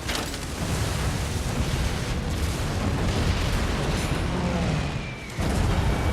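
Explosions on a war film soundtrack: a sudden blast at the start, then a continuous heavy rumble that cuts abruptly about five seconds in to another loud rumble.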